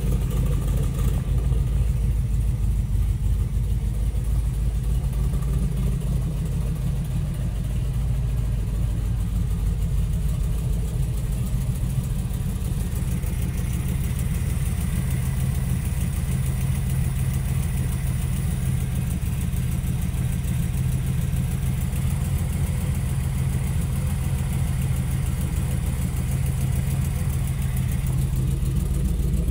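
Carbureted Chevrolet V8 in a 1923 Ford Model T street rod idling steadily, an even low engine note with no change in loudness.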